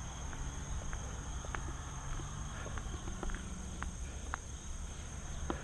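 Crickets trilling in one steady high-pitched drone, over a low rumble, with a few faint ticks.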